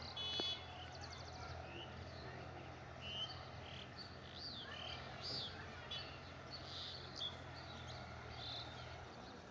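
Faint birds chirping: short, quick calls every second or so, over a steady low hum.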